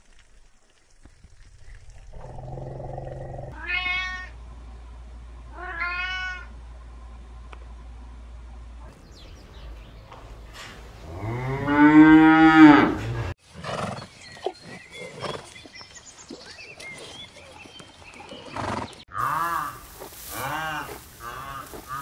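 A series of animal calls. Two short, high calls come about two seconds apart near the start. Around the middle a cow gives one long, loud moo, the loudest sound. Near the end several shorter calls follow one after another.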